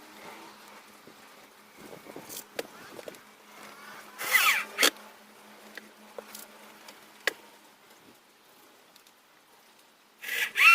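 Hand-tool work on metal and wood: scattered knocks and clicks, with two short, loud scraping bursts that squeak as they go, one about four seconds in and one near the end.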